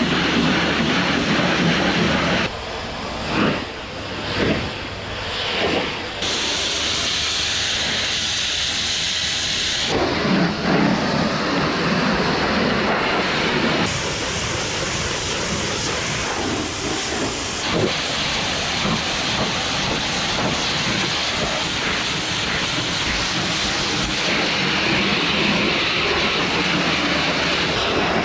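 High-pressure washer jet blasting mud and oil off a bulldozer, a dense hiss that changes in tone every few seconds, over a steady low hum.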